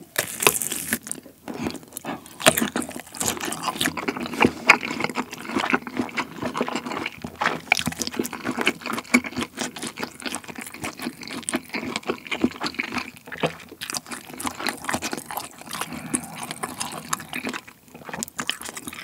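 A bite into a kielbasa sausage, then close-miked chewing full of small mouth clicks.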